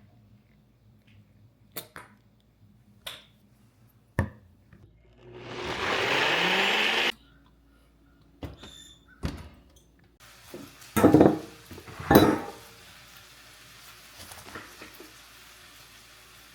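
Kitchen cooking sounds: light clicks and knocks, then a rush of noise lasting about two seconds that rises and cuts off suddenly. Later come two loud clunks of cookware being handled.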